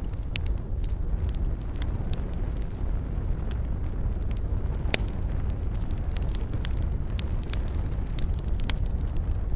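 Wood fire burning in a fireplace: a steady low rumble of flames with frequent sharp crackles and pops, the loudest pop about halfway through.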